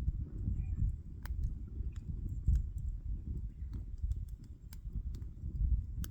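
Wood fire crackling: irregular sharp pops and snaps over a low rumble.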